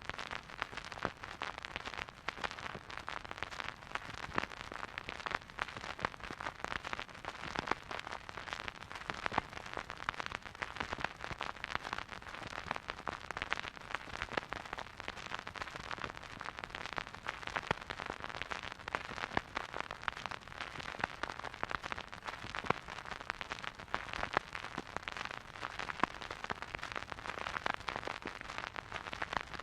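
Vinyl record surface noise from a silent groove: steady hiss with dense, irregular crackles and pops.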